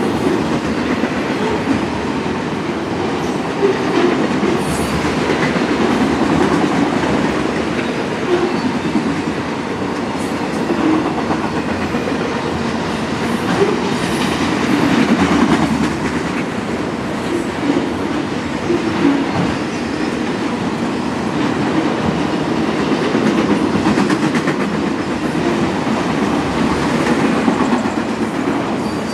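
Union Pacific freight train's autorack cars rolling past: a steady rumble of steel wheels on rail, with irregular clicks and knocks from the wheels.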